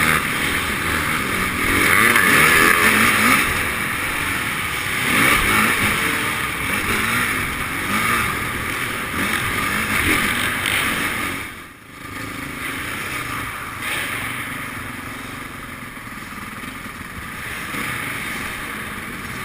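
Motocross bike engines revving up and down, with a sudden brief dip in the sound about twelve seconds in, then running steadier and a little quieter.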